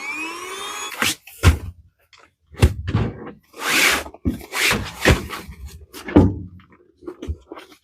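Air mattress being handled: a rising squeal that stops suddenly about a second in, then a run of knocks, thumps and short rustles.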